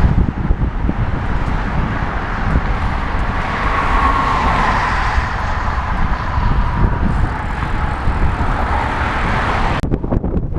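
Wind rumbling over a helmet-mounted microphone while cycling, with a passing car whose tyre and engine noise swells to a peak about four seconds in and then fades.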